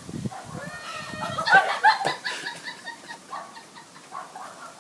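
High-pitched, wordless excited squeals and cries from a person, loudest about halfway through.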